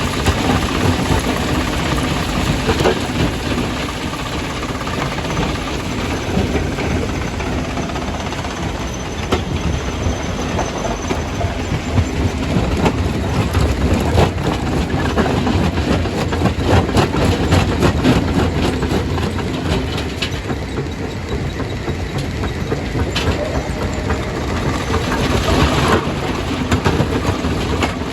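Stone crusher crushing rock: a continuous heavy rumble and clatter of breaking stone, with sharp knocks of rock on steel scattered throughout.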